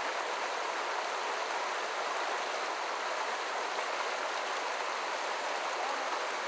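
Creek water running steadily over rocks: a constant rushing hiss with no pauses.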